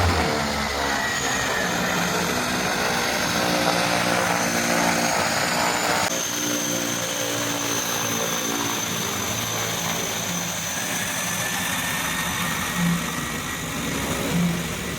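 Aircraft engines running: a steady drone with a thin high whine above it, which shifts in pitch about six seconds in.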